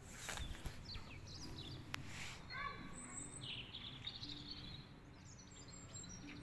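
Small birds chirping faintly, with short high calls and whistles now and then over low steady background noise.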